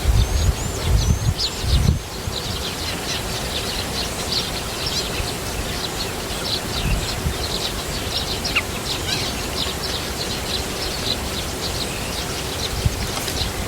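Small birds chirping: a continuous stream of short, high-pitched chirps, several overlapping. Wind rumbles on the microphone in the first couple of seconds.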